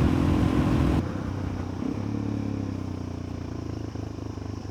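Suzuki DR-Z400E's single-cylinder four-stroke engine running while riding, with wind noise over it. About a second in, the sound drops suddenly to a quieter, steady engine note.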